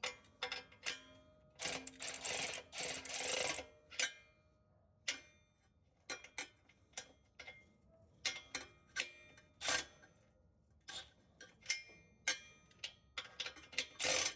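Hand tools on the exhaust's flange bolts: irregular metallic clicks and clinks, with a dense run of ratchet clicking about two seconds in, as the bolts are run in snug but not torqued.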